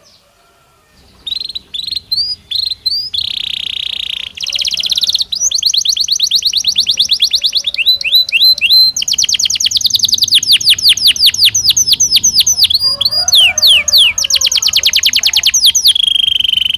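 Belgian canary singing: after about a second of quiet, a long unbroken song of fast trills and quick rising whistled notes, run together phrase after phrase.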